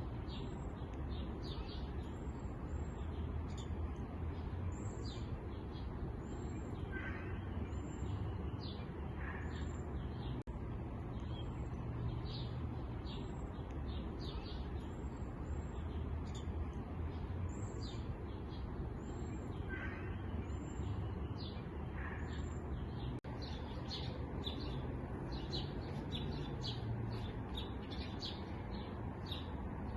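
Many small birds chirping and twittering, with short high notes coming thick and fast over a steady low rumble. The same stretch of birdsong comes round again about every 13 seconds, like a loop.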